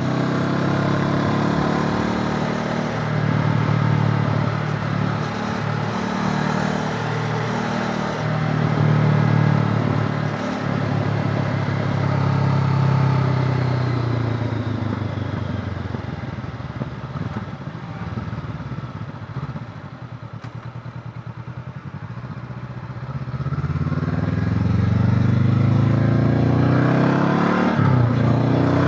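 Honda CB500X's parallel-twin engine under way: a steady note that falls over several seconds as the bike slows, sits low and pulsing for a few seconds about two-thirds through, then rises again as it accelerates, with a short clunk near the end.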